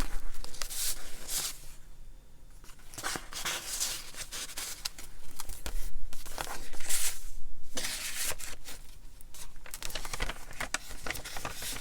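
Paper rustling and crinkling in repeated bursts, with small clicks and taps: pages of a handmade junk journal being handled and turned.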